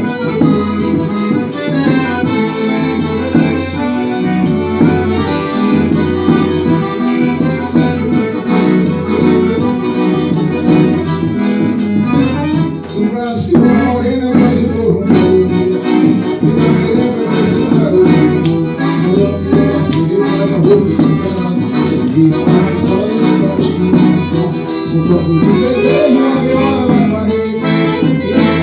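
Live forró music led by an accordion, with shaken and struck percussion keeping a steady, quick beat.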